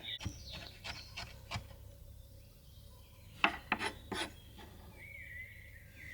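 Short rasping scrapes, a few light ones and then three stronger strokes a couple of seconds later, like a blade or grater working on something on a wooden surface. A bird chirps briefly near the end.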